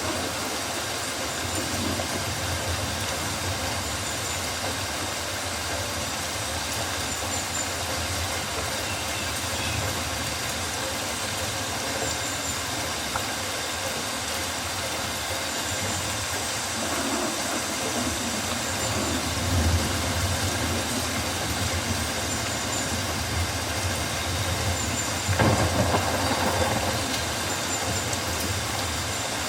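Rainforest ambience: a steady wash of rain, with faint high chirps now and then and a louder low swell about 25 seconds in.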